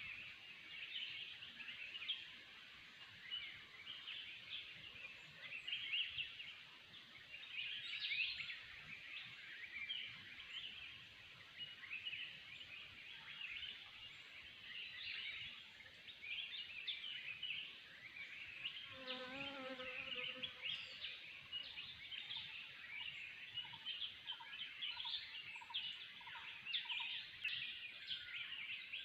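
Chorus of many forest birds calling and chirping over one another. About two-thirds of the way through, a lower, fuller call stands out, followed by a run of short, evenly repeated notes.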